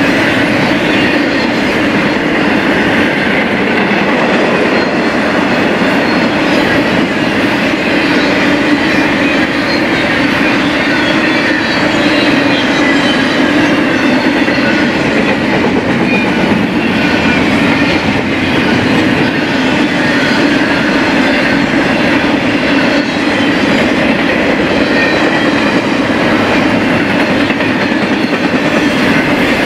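Freight train's cars rolling past close by: a steady, loud rumble of steel wheels on rail with a clickety-clack over the rail joints.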